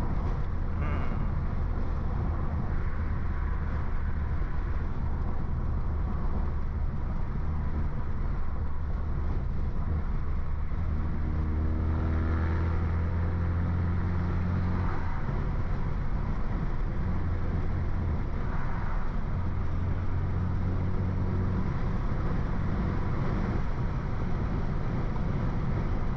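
A BMW F30 328i's turbocharged four-cylinder engine and stage 2 downpipe exhaust drone steadily while the car cruises. About eleven seconds in, the engine note rises as the car accelerates, then settles back to a steady drone.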